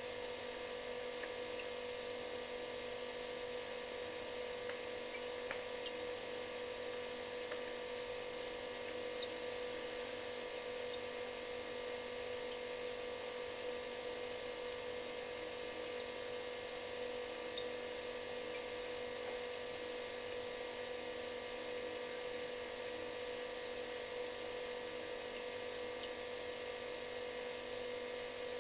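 Refrigerator running: a steady, unchanging electric buzz with one strong hum tone and several fainter tones over a soft hiss, with a few faint ticks.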